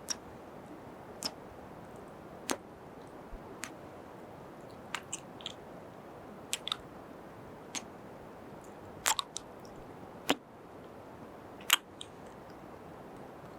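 Close-miked kisses: a string of short, wet lip smacks at irregular intervals, sometimes two or three in quick succession, over a steady faint hiss.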